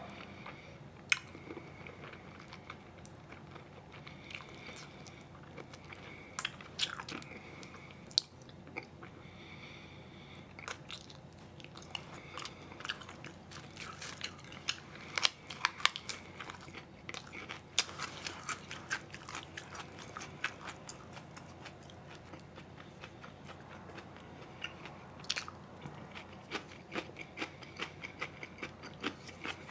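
A person chewing and biting food, with many short wet smacks and crisp crunches that come thickest around the middle of the stretch.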